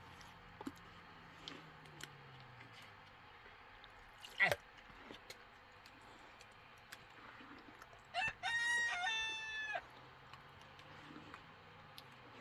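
A rooster crows once, about eight seconds in: a short note, then a long held one. About halfway through, a single brief, sharp sound falls steeply in pitch.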